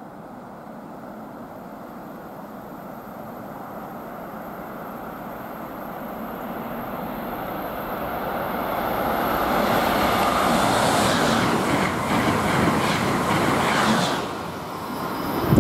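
Passenger train approaching and passing, its wheel and rail noise building steadily for about ten seconds into a loud, hissing rush. It dips briefly, then swells again in a deep burst near the end.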